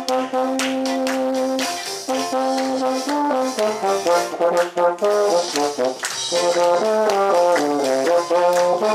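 Euphonium playing the melody of a gospel tune, long held notes alternating with quicker moving phrases, over a steady rhythm of sharp percussive strokes.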